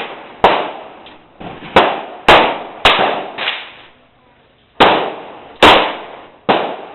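Pistol shots at a shooting range: a string of about nine sharp reports at uneven intervals, each trailing off in an echo, with a pause of about a second midway.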